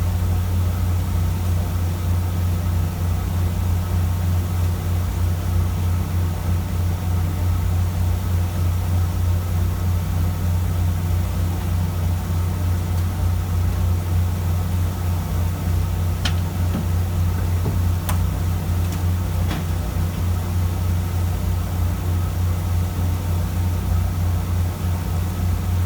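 Fishing boat's diesel engine running steadily, a deep even drone, with a few faint clicks about two thirds of the way through.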